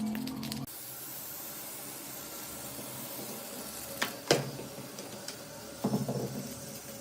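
Background music cuts off under a second in, giving way to a steady hiss. About four seconds in come two sharp metallic knocks, then a brief clatter of metal parts about two seconds later.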